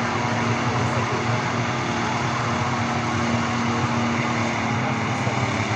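Scammell heavy tractor unit's engine running at a steady, unchanging speed.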